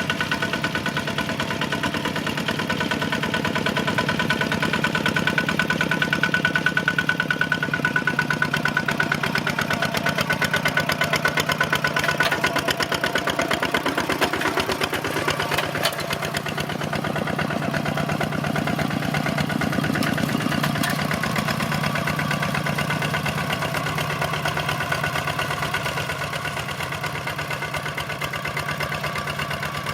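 Kubota tractor's diesel engine running steadily with a rapid, even beat of firing pulses, its pitch and loudness shifting a little in the middle and easing slightly near the end.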